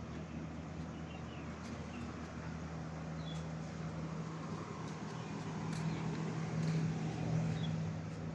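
A steady low engine hum that grows a little louder about six seconds in, with a few faint high chirps and ticks above it.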